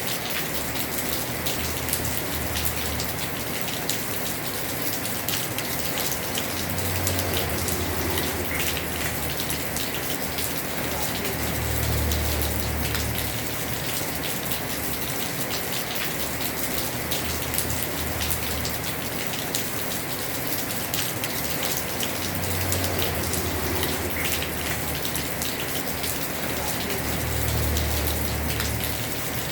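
Heavy rain on a house roof: a dense, steady hiss of falling water with many sharp taps of single drops. A low rumble swells and fades every few seconds.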